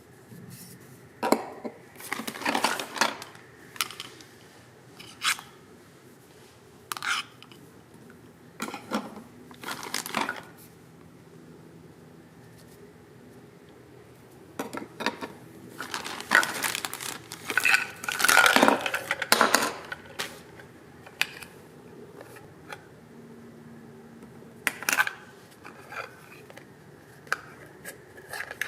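Small plastic toy-kitchen pieces (pots, utensils, toy food) clicking and clattering as they are handled, in scattered bursts with a busier run of clatter a little past the middle.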